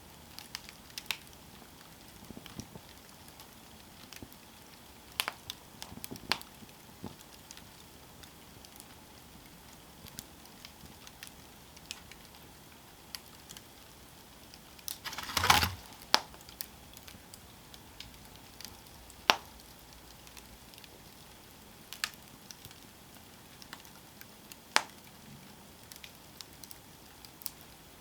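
Campfire crackling: scattered sharp pops over a low steady hiss, with a louder burst of pops about halfway through.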